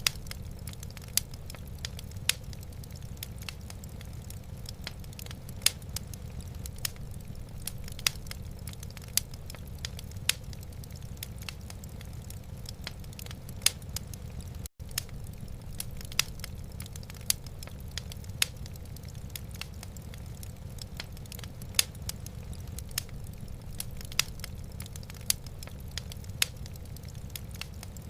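Wood fire crackling in a fireplace: irregular sharp pops and snaps over a steady low rumble. The sound cuts out for an instant about halfway through.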